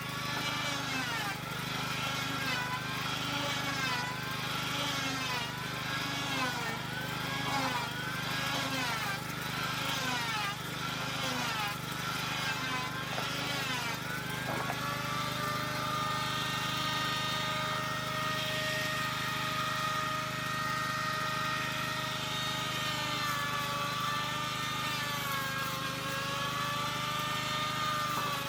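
A small motor running. Its pitch rises and falls about once a second for the first half, then holds nearly steady.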